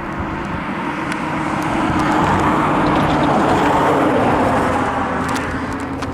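A road vehicle passing by, its tyre and engine noise building to a peak about three to four seconds in and then fading.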